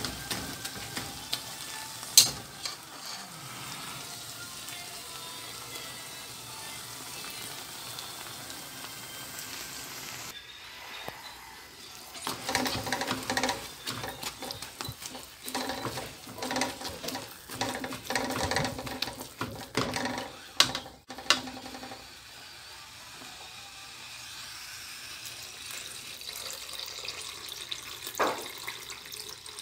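Mung beans sizzling in a hot metal pan as they are pressed and stirred with a spoon. Irregular scraping and clatter of the spoon against the pan fill the middle stretch, and a sharp knock comes near the end.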